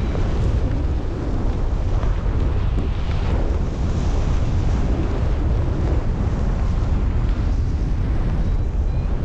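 Wind buffeting the microphone: a steady, heavy rumble of rushing air.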